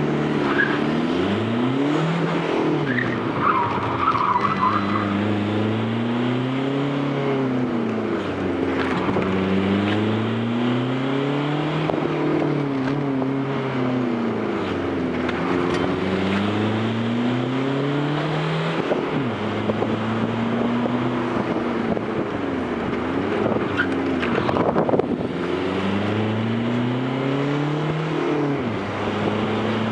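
Fiat Grande Punto 1.9 Multijet turbodiesel engine under hard running, its pitch climbing and dropping back about six times as it is revved through a run.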